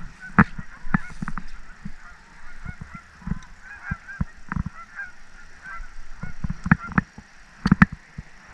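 Water birds honking repeatedly, with sharp knocks scattered among the calls and a quick run of louder knocks near the end.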